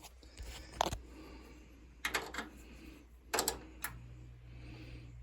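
A few sharp clicks and knocks of hard objects being handled, then a low steady electrical hum from the furnace starts about four seconds in as the door safety switch is held in.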